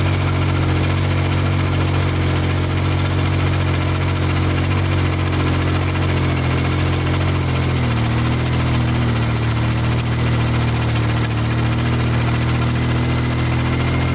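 Antique tractor engine running steadily, with a low, even engine note; the note changes slightly about eight seconds in.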